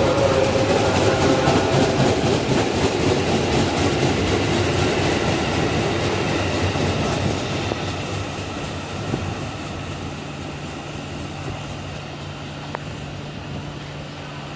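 JR 205 series electric commuter train pulling out, its wheels clacking over the rail joints, the sound fading steadily as it moves away.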